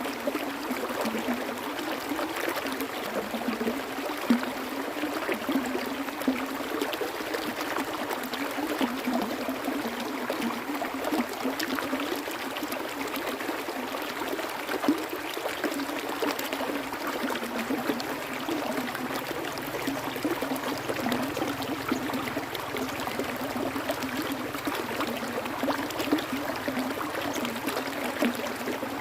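Water flowing steadily, an even rush with many small splashes.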